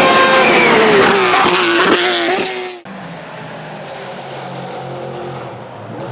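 Bentley Speed 8's 4.0-litre twin-turbo V8 racing engine at high revs, its pitch falling steadily for nearly three seconds, then cut off suddenly to a quieter, lower steady engine note.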